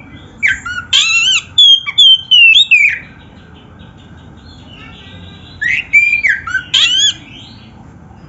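Oriental magpie-robin (kacer) singing loud whistled phrases of rising and falling notes, in two bursts with a pause of a couple of seconds between them.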